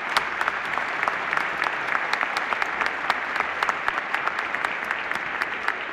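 Audience applauding: many hands clapping steadily, starting to thin out near the end.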